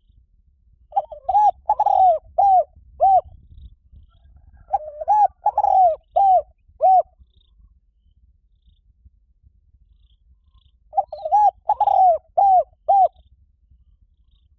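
Spotted dove cooing: three phrases of several rounded coos each, about a second and a half to two seconds long, separated by pauses, played as a decoy call for luring doves.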